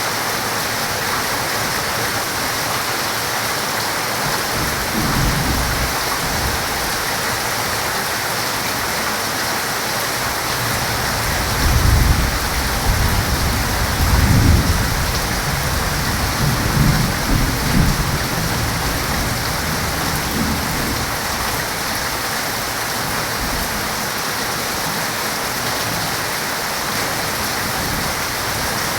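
Heavy rain falling as a steady hiss. Rolling thunder rumbles through the middle, loudest in two swells about twelve and fourteen seconds in.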